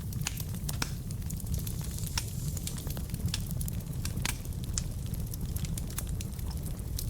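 Wood fire burning in a fireplace: frequent sharp irregular crackles and pops from the burning logs over a steady low rumble of the flames.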